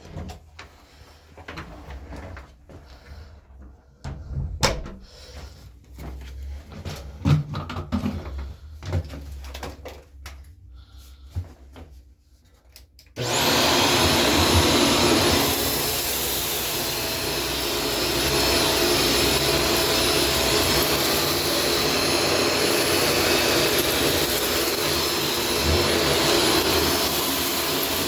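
Scattered clicks and knocks of handling for about the first half. Then a Shark Stratos vacuum cleaner switches on abruptly and runs steadily, a loud even rush with a thin high whine on top.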